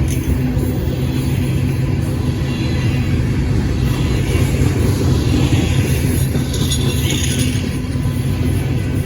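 Steady low rumble of a passing train, even in level throughout, with no clear horn blast.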